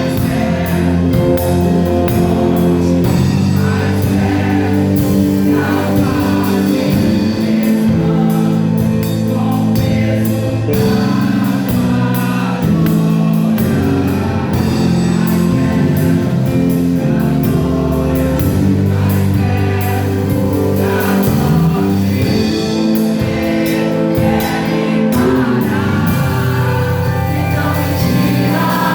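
Live gospel worship music: a band of drums, bass and keyboard playing while singers lead a Portuguese-language praise song.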